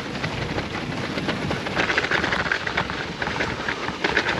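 Bicycle rattling and clattering hard as it rides over frozen, rock-hard bumpy ground, a dense run of rapid knocks and jolts that barely lets up.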